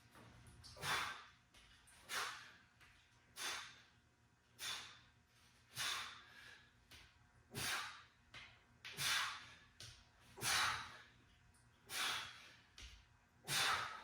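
A person breathing hard while exercising: about ten sharp, noisy exhales in a steady rhythm, one every second and a half or so.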